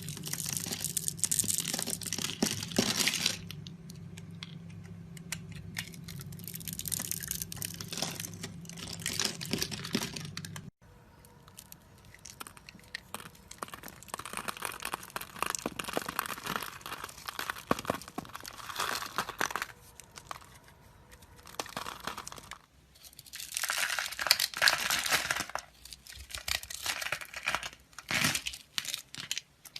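A blade cutting and scraping through bars of soap in spells of fine, crisp crackling, with short pauses between the strokes.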